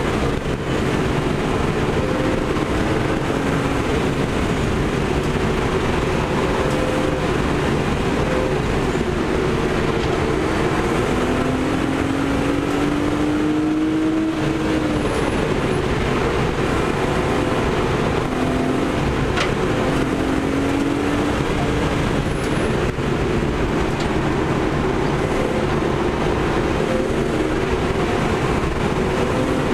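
BMW 325i's straight-six engine pulling hard, heard inside the cabin, its pitch rising and falling with the revs through the corners, over a steady rush of road and wind noise.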